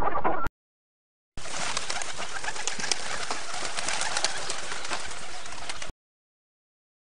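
The tail of chicken sounds cuts off half a second in. After about a second of silence, a pigeon coos over a steady hiss for about four and a half seconds, then the sound cuts off abruptly.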